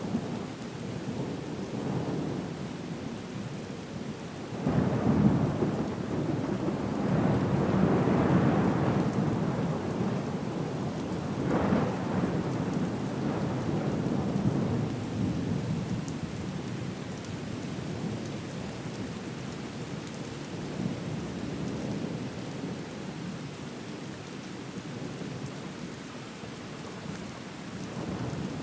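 Thunderstorm with steady rain and rolling thunder. A rumble breaks in suddenly about four and a half seconds in and swells for several seconds, with a sharper peal near twelve seconds, then it fades back to the rain.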